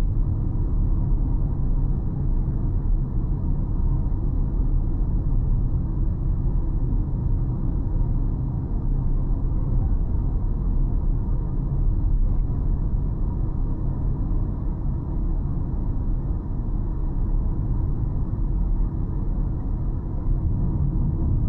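Car driving along a city road: a steady low rumble of road and engine noise with no sudden events.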